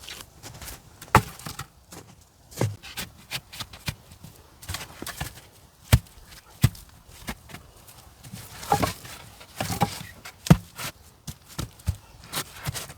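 A run of irregular, sharp knocks and taps of varying loudness, with a few longer scraping sounds about nine seconds in.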